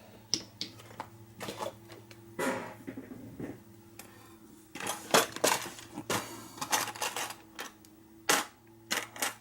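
Lock-picking tools and a padlock being handled, giving irregular light metallic clicks and clinks. The clicks come in scattered clusters, busiest around the middle.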